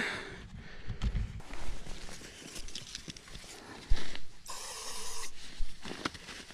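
Footsteps and handling noises with a few soft thumps, and a short hiss a little under five seconds in.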